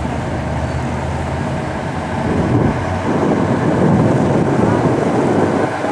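A boat's engine drones steadily. From about two seconds in, gusty wind buffets the microphone on top of it.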